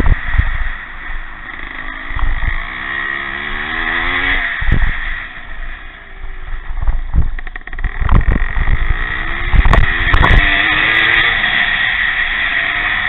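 Pre-65 vintage motocross motorcycles racing, their engines revving up and falling back as they ride the course, with wind buffeting the microphone.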